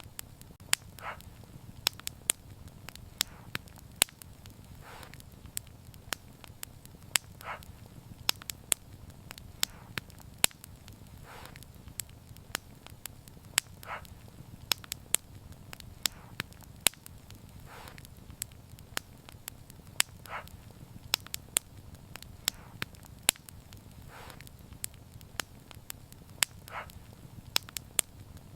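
Wood fire burning, crackling with frequent sharp, irregular pops over a steady low rumble of flames.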